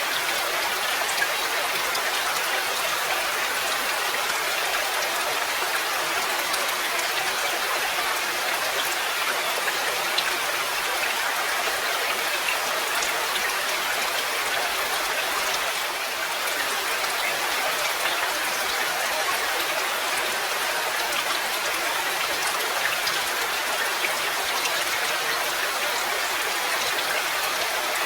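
Steady rain falling: a dense, even hiss of drops with a few sharper single drip ticks.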